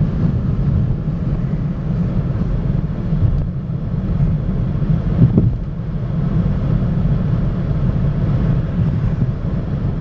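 Road noise inside a moving car's cabin: a steady low rumble of engine and tyres, with one brief louder bump a little past halfway.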